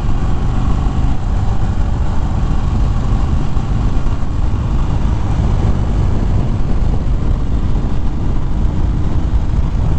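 Wind rushing over a helmet microphone at riding speed, with a 2013 Harley-Davidson Fat Bob's V-twin engine running under it; faint engine tones show in the first few seconds.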